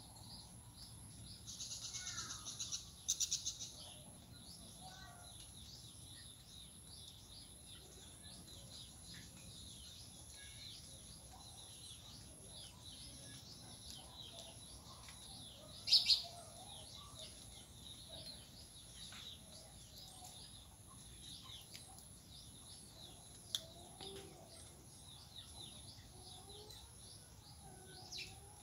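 Small birds chirping and calling over and over, with a steady high-pitched tone behind them. There is a short noisy stretch a couple of seconds in and a single louder sharp sound about halfway through.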